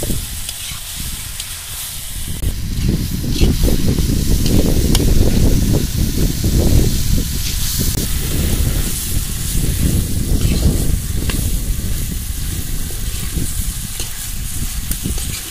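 Chicken pieces sizzling in an iron kadai over a wood fire, stirred now and then with a metal spatula, over a low, uneven rumble.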